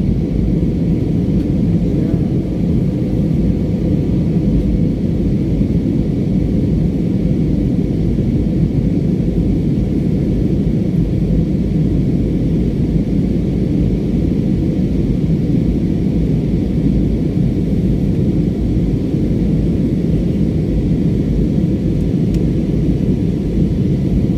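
Steady, unchanging low rumble of an airliner's engines and rushing air, heard from inside the passenger cabin.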